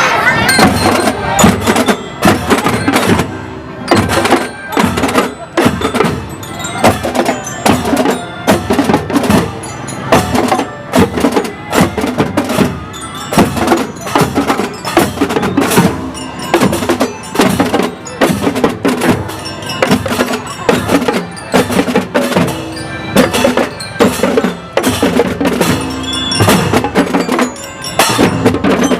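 School drum band playing: drums beating a steady rhythm under pitched mallet percussion such as bell lyres playing a tune.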